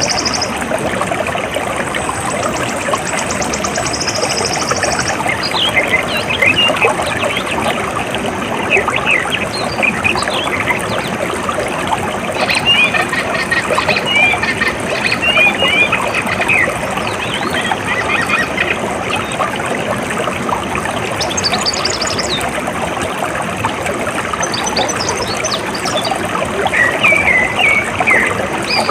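Steady rush of running water, with small birds chirping over it from about five seconds in. A high, rapid buzzing trill is heard for the first five seconds.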